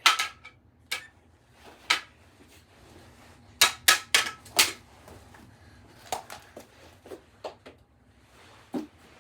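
Mini hockey sticks clacking and knocking during knee hockey play: a string of sharp clacks, with a quick run of four near the middle and lighter knocks after.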